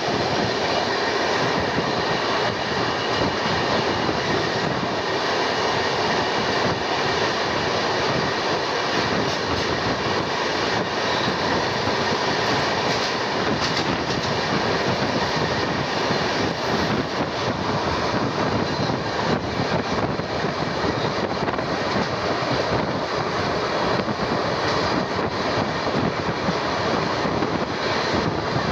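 Steady noise of an Indian Railways sleeper-class coach running at speed, heard through its open window: the wheels running on the rails mixed with the rush of air. For much of the time, covered goods wagons on the adjacent track pass close alongside, adding their own wheel and wagon noise.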